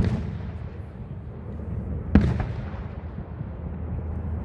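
Aerial fireworks shells bursting: two loud bangs about two seconds apart, each followed by a rolling echo that dies away.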